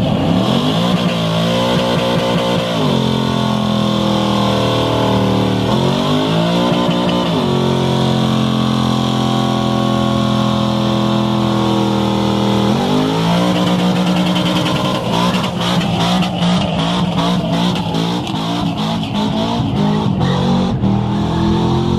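A car engine is revved up and held at high revs during a burnout, with tyres squealing steadily underneath. The revs fall back and climb again twice, and the sound turns choppy in the last few seconds.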